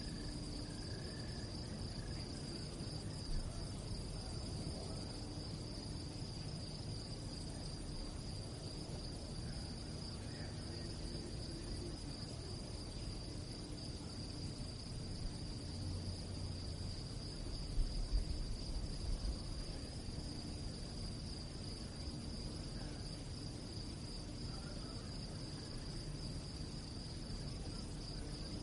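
Crickets chirping at night, a steady high-pitched trill with no break. A low rumble sits underneath, with a few brief low thumps about two-thirds of the way through.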